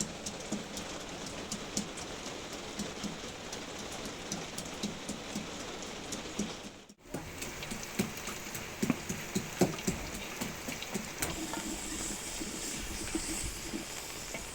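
Rain falling steadily, with sharp drops ticking on hard surfaces. The sound drops out briefly about seven seconds in.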